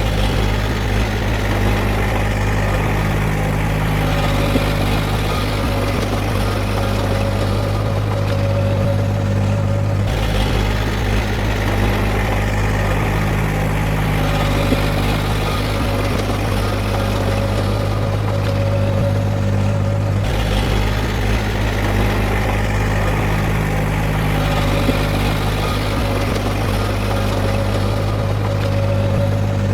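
Heavy earthmoving machinery's diesel engine running steadily, with a strong low hum and a steady higher whine. The sound goes through the same pattern about every ten seconds.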